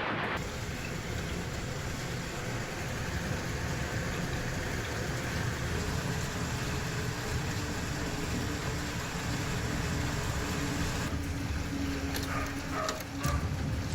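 Hail and heavy rain pelting down in a windy storm, a steady dense rushing noise, with a few sharp hits near the end.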